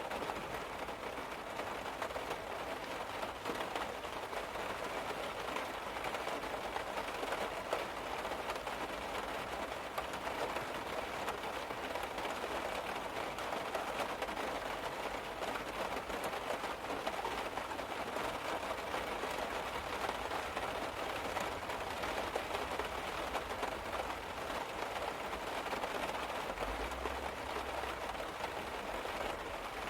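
Steady rain falling on a car's roof, heard from inside the car.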